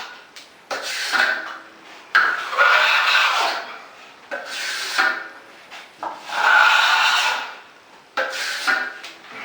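Steel drywall trowel scraping across wet joint compound on a ceiling, feathering out the edge of the final coat in several long strokes, each a second or so.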